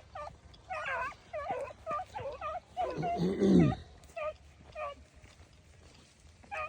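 Beagles baying on a cottontail rabbit's trail, the hounds in full cry on the scent. A quick run of short yelps is followed about three seconds in by a louder, deeper, drawn-out bawl, then scattered yelps fading out.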